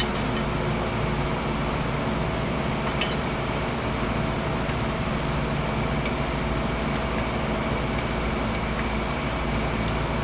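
Steady machine drone from running shop machinery, even and unchanging, with a few faint clicks scattered through it.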